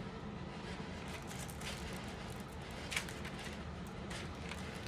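Steady low background hum with a few faint ticks and rustles from stamp album pages being handled, the clearest tick about three seconds in.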